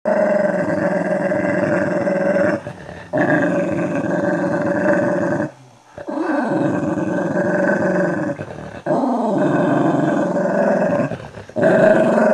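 Dogs growling as they fight, in long unbroken growls of two to three seconds each with short breaks between.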